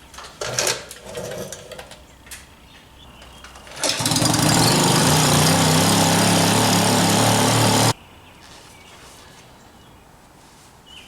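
A motor-driven machine runs steadily for about four seconds, starting and cutting off abruptly, after a few clicks and knocks of handling.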